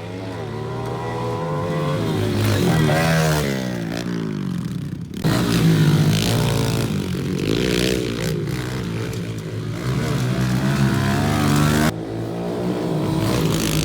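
Small single-cylinder pit bike engines revving up and down as the bikes ride laps, the pitch rising and falling with the throttle. The sound breaks off abruptly and changes twice, about five seconds in and again near twelve seconds.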